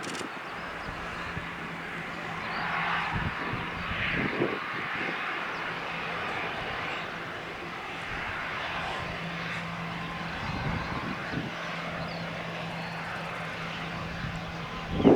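Jet aircraft engines heard at a distance: a steady rushing noise with a faint low hum, swelling slightly around three to four seconds in.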